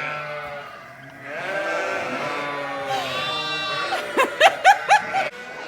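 Ewes and lambs bleating: a long call, then a higher-pitched bleat about three seconds in, then a quick run of short bleats near the end.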